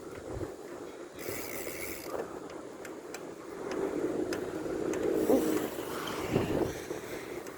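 Street traffic and wind noise heard from a moving bicycle, with a few light clicks and rattles. A motor vehicle passes, loudest about four to six seconds in.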